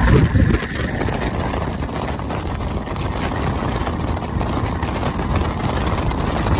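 Twin-turbo limousine's engine with a loud surge in the first half-second, then running steadily under a constant rush of wind and road noise.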